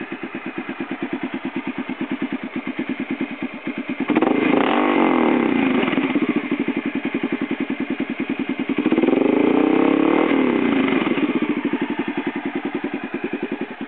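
1993 Honda XR650L's single-cylinder four-stroke engine idling with an even pulse through a freshly repacked Supertrapp IDS muffler. It is revved twice, about four and about nine seconds in, each rev rising and dropping back to idle, with a beefy tone.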